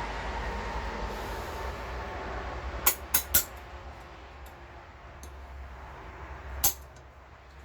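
Metal parts of a lawn tractor gearbox clinking as they are handled during disassembly: three quick clinks about three seconds in and a louder one near the end, over a steady low hum.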